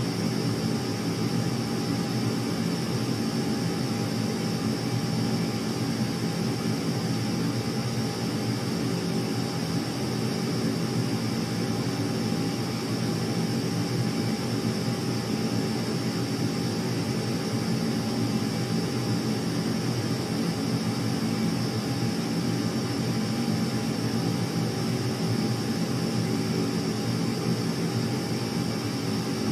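Steady, unchanging drone of aircraft engines, with a constant high hiss above it.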